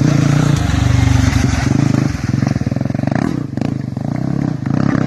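Rally-raid motorcycle engines running hard as bikes pass on the stage. Loudest in the first second and a half, easing off about three and a half seconds in, then rising again near the end.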